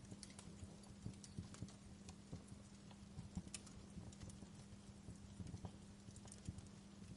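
Fireplace wood fire crackling quietly: irregular small pops and snaps, a few each second, over a low rumble and a steady low hum.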